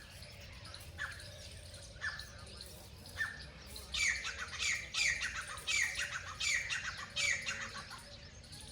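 A bird giving sharp, harsh squawking calls, about one a second at first, then a loud quick run of calls in the middle, over a steady low rumble.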